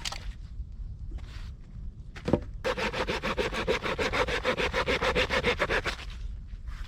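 Hand saw cutting wood in rapid, even back-and-forth strokes for about three seconds, after a single knock.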